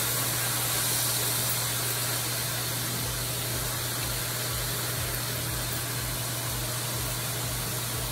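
Cabbage frying in oil in a skillet, a steady sizzling hiss, with a low steady hum underneath.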